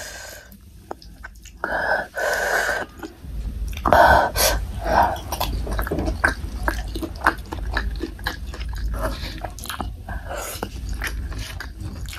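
Close-miked chewing of soft, saucy boneless chicken feet and rice: a steady run of small wet clicks, with louder mouth sounds about two and four seconds in.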